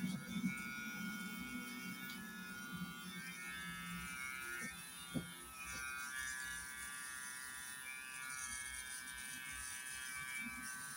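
Cordless electric hair clippers running steadily with an even hum, and a single sharp click about five seconds in.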